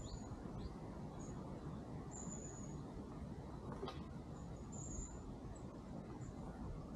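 Quiet outdoor ambience: small birds give short, high chirps now and then over a low, steady rumble.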